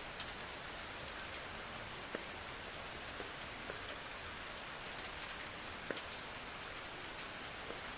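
Steady rain, with a few single drops landing close by as sharp ticks, the clearest about two and six seconds in.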